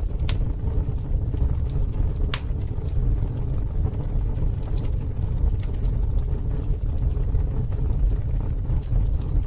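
Campfire burning with a steady low rumble of flames and scattered sharp crackles and pops, two louder pops near the start and about two and a half seconds in.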